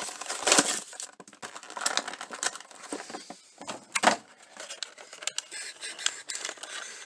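Plastic and cardboard toy packaging being handled: irregular crinkles and clicks.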